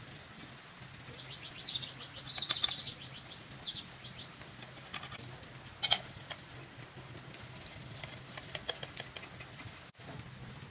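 Small birds chirping in short, rapid high trills, loudest about two seconds in, with a sharp chirp near six seconds and more trills later, over a low steady hum.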